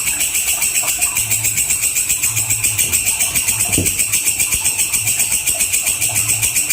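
Walang kecek insect calling: a fast, even run of sharp, high chirps, about eight pulses a second, going on without a break.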